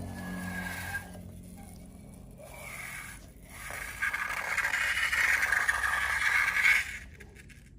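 Scraping and rubbing sounds of slime being worked, growing louder about four seconds in and stopping shortly before the end. Low background music fades out in the first second.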